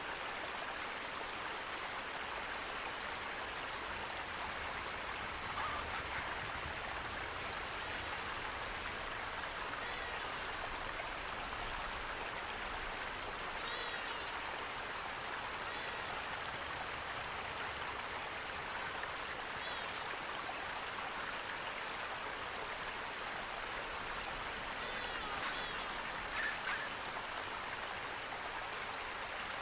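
Steady rushing of running water, a stream or small waterfall, with a few faint short bird chirps now and then, mostly in the second half.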